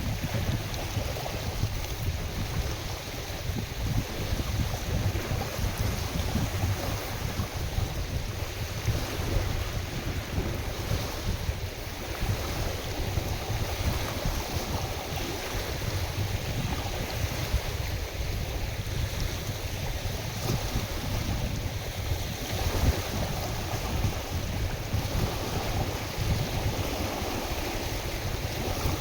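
Wind-driven waves on a lake washing steadily, with gusty wind buffeting the microphone as a low rumble.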